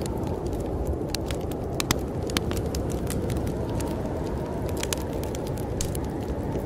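Wood fire crackling in a fireplace, with irregular sharp pops and snaps, over a steady low rush of snowstorm wind.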